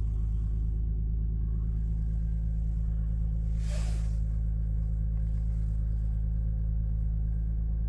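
Lexus GS300 engine idling steadily during its cold-start warm-up, with a brief hiss about four seconds in.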